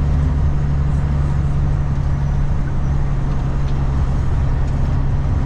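Semi truck's diesel engine running steadily while driving, heard inside the cab as a low, even drone.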